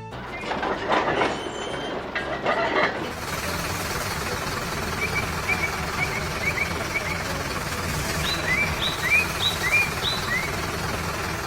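A vehicle engine runs with a steady low rumble, with a few knocks and rattles in the first seconds. Over it, small birds give short rising chirps in the second half.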